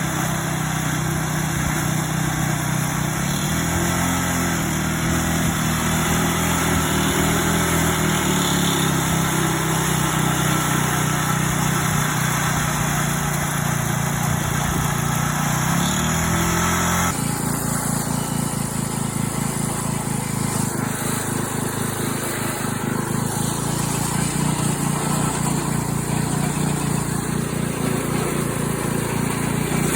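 Small tractor engine running, its pitch rising and falling with the throttle in the first half; the sound changes abruptly about seventeen seconds in and the engine runs on steadily.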